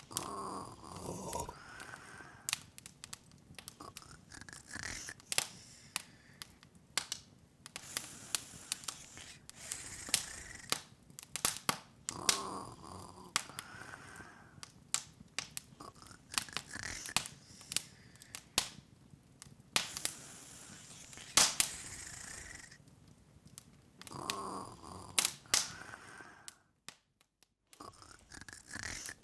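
Open wood fire crackling: irregular sharp pops and snaps, sometimes several a second, over a faint hiss. A softer, lower sound comes back about every twelve seconds, and the crackle cuts out for about a second near the end.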